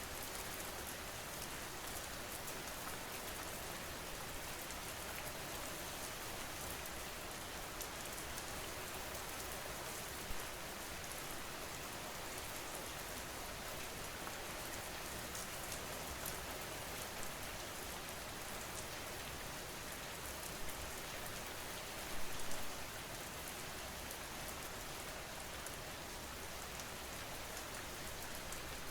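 Steady rain falling, with a few brief louder spatters about ten seconds in and again around twenty-two seconds.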